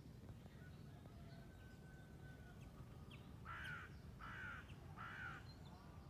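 A bird calls harshly three times in quick succession, about a second apart, in the second half. Under it runs a faint, steady low outdoor background noise.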